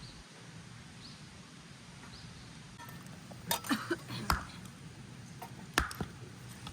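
Several sharp clicks and knocks in two short clusters, about three and a half seconds in and again near six seconds, over a low steady background.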